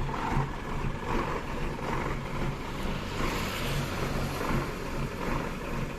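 Mitsubishi Fuso truck's diesel engine running steadily at idle, warming up after standing unused for two weeks, with a low hum and an even, repeating pulse.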